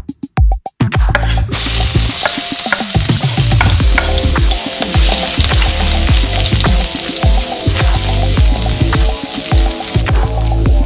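Chopped garlic sizzling in hot oil in a wok, stirred with a wooden spatula, starting about a second and a half in after a few beats of electronic music.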